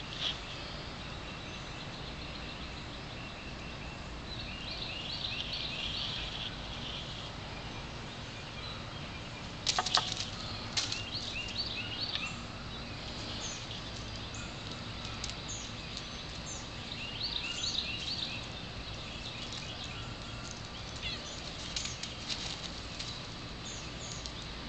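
Songbirds chirping in repeated bursts of quick high notes over a steady low background rumble. A short burst of sharp clicks or rustling about ten seconds in is the loudest sound.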